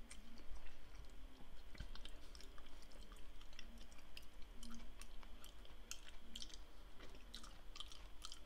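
A person chewing a strawberry muffin close to the microphone: a steady run of small, irregular mouth clicks and smacks.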